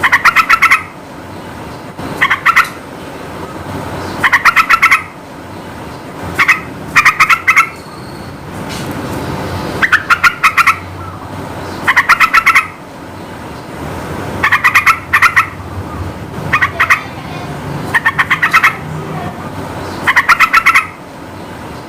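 Sooty-headed bulbul (trucukan) singing in short, loud bursts of rapid repeated notes, about one burst every two seconds, over a steady background hiss.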